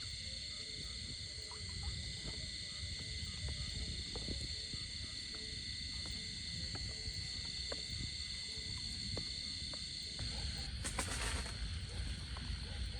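Outdoor ambience of a steady high-pitched insect chorus, several droning tones at once, over a low rumble, with scattered faint clicks. A short, louder buzzing burst comes about eleven seconds in.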